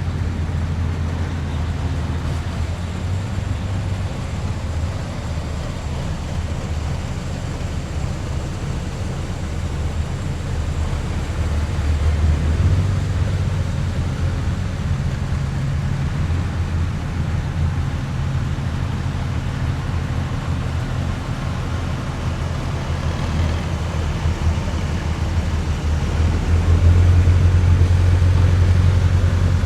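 Engines of heavy military vehicles in a passing column, a steady low rumble that swells as one vehicle passes about twelve seconds in and again louder near the end.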